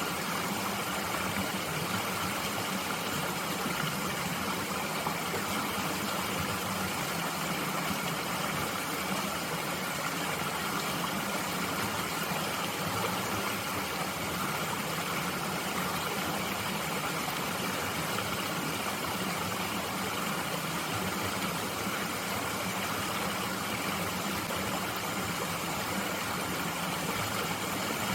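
Mountain stream flowing steadily, an even rushing of water with no breaks or separate splashes.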